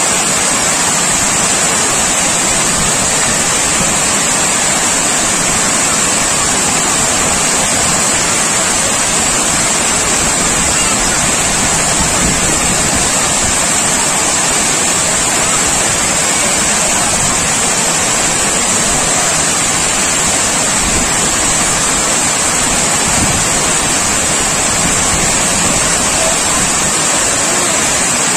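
Loud, steady rush of water pouring over an overflowing dam.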